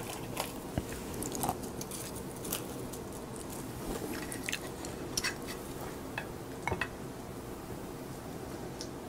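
Close-miked eating of crisp seasoned laver (gim): chewing with a dozen or so scattered sharp crackles and crunches.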